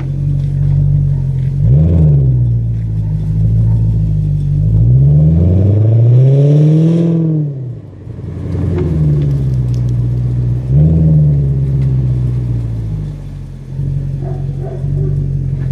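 Audi A8 4.2 V8 with the muffler deleted, idling and being revved through the open exhaust: a short blip about two seconds in, a longer rev that climbs and falls back around the middle, and another short blip a few seconds later, each settling back to idle.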